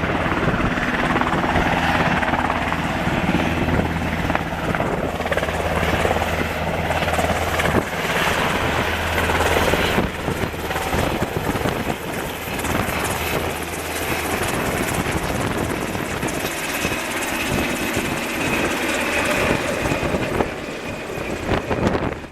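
UH-60 Black Hawk helicopter in flight: loud, steady rotor and twin-turbine noise, with a low hum that fades after about fourteen seconds.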